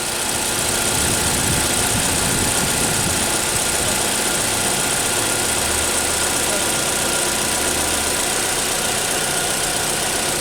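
GM Chevrolet Cruze engine idling steadily, a car whose owner reports it misfiring and shaking at idle.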